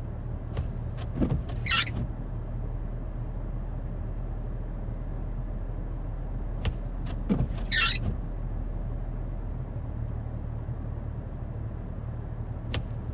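A vehicle engine idling steadily while the windshield wipers make two sweeps about six seconds apart, each a short squeaky swish across the glass in heavy snow.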